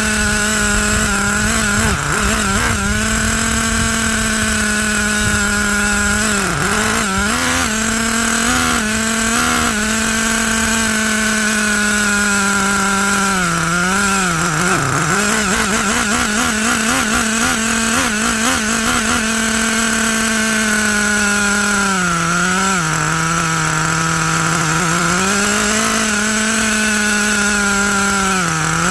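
Traxxas T-Maxx's 3.3 two-stroke nitro engine running at a high, steady pitch. Its pitch dips briefly and recovers now and then, settling lower for a few seconds near the end.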